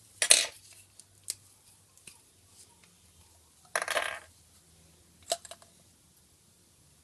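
Small hard objects clattering as they are handled and set down on a workbench: a short rattle just after the start, a single click, a longer rattle about four seconds in, then a couple of quick clicks.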